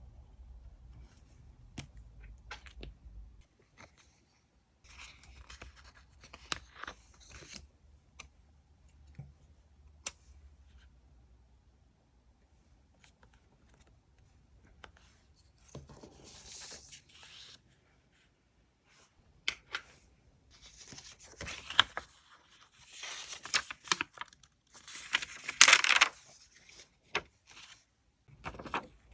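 Paper crafting sounds: paper and sticker sheets being handled and torn, with scattered small taps and clicks between longer rustling tears. The loudest tearing comes near the end.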